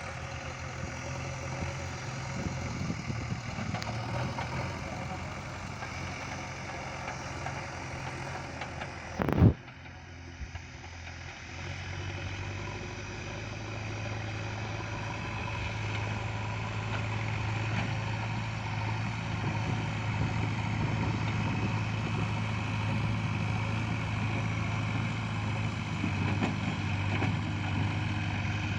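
Heavy diesel engine running steadily, with one sharp, loud knock about nine seconds in. From about twelve seconds the engine note strengthens and grows slowly louder, as under load.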